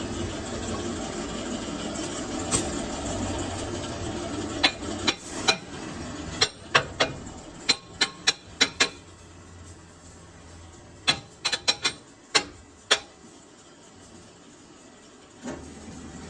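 Steady machine noise fades, then comes a run of sharp metal-on-metal taps and clinks, about fifteen in irregular groups, with the machine noise coming back near the end.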